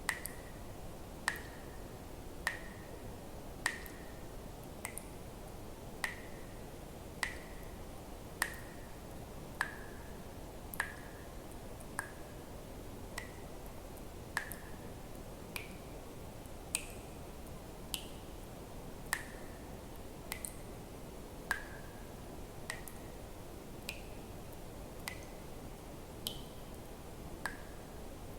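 Water drops falling one at a time into water, about one every second and a bit. Each is a sharp plink with a short ringing tone that often rises in pitch, the pitch shifting a little from drop to drop, over a steady low background noise.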